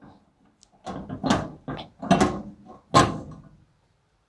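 Sharp R-75MT microwave oven being handled: a handful of knocks and clunks from its parts, coming about a second in, the loudest near the three-second mark.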